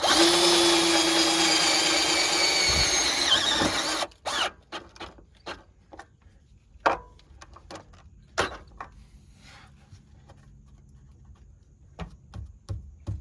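Power drill running under load for about four seconds, its pitch sagging slightly before it stops, then a scattering of sharp clicks and knocks.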